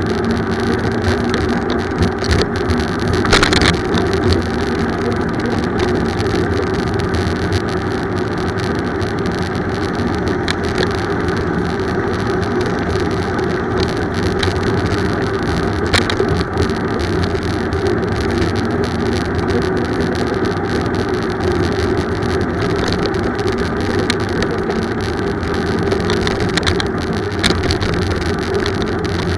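Steady rumbling ride noise from a bicycle on the road, the kind a bike-mounted camera picks up: wind and tyre noise with a few sharp clicks and knocks, one about three seconds in and another about sixteen seconds in.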